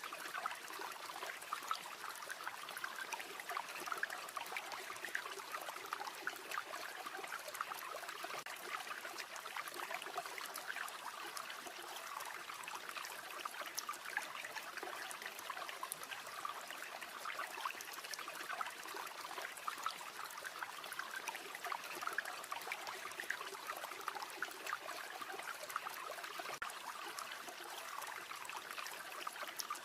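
A river or stream running steadily over rocks, a continuous trickling and splashing rush full of small droplet ticks.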